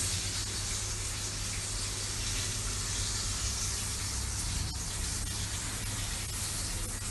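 A steady hiss with a low hum underneath.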